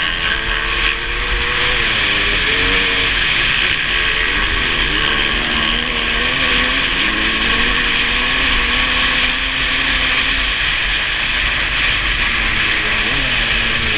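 Kawasaki KX500 two-stroke single-cylinder motocross engine racing on ice, its pitch rising and falling repeatedly as the throttle is opened and backed off through the corners, over a loud steady hiss.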